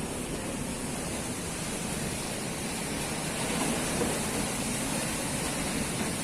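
Strong wind blowing hard, a steady rushing noise that swells a little partway through, with rumble from the wind on the microphone.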